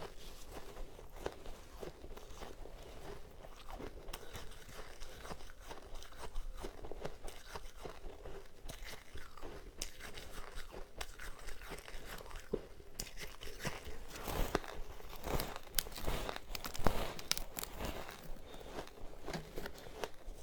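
Close-up crunching and chewing of powdery ice, with many small irregular crackles as the ice is bitten and ground between the teeth. The crunching grows denser and louder past the middle.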